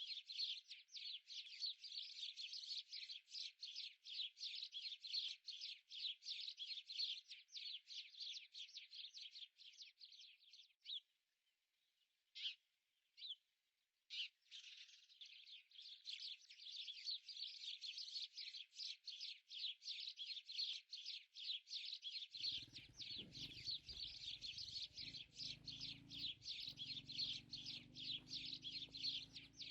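Birds chirping rapidly and almost without a break, falling silent for a few seconds near the middle apart from two single chirps. About two-thirds of the way through, a faint low steady rush joins in underneath.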